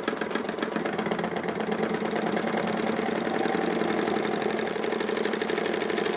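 Ernst Plank Cosmo vertical model steam engine running steadily, its exhaust and moving parts giving a rapid, even beat.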